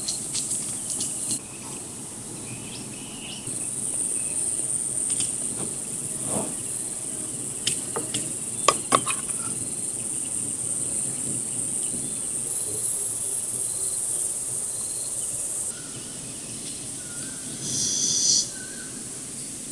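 Steady high-pitched insect chorus in the open air, growing louder a few seconds in and dropping back near the end. A few sharp clicks sound around the middle, and a short tonal call comes near the end.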